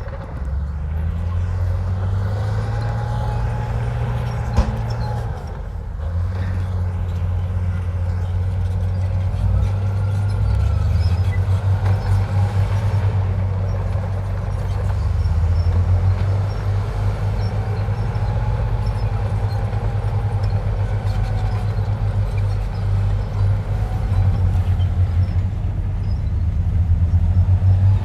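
Komatsu bulldozer's diesel engine running under load with a steady low drone, with faint whines that rise and fall as the machine works. There is a single sharp clank about four and a half seconds in.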